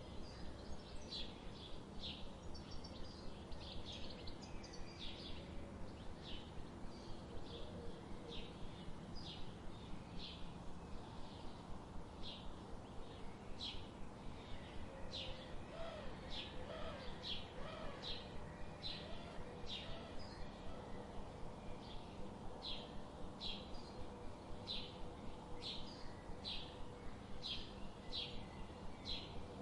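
Forest bird calling, a short high note repeated steadily more than once a second, with fainter lower bird calls in the background partway through.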